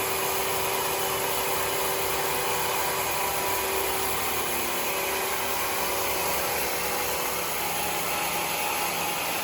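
Sawmill running steadily, a constant machine drone with a high whine over it; one of its tones shifts slightly in pitch about four seconds in.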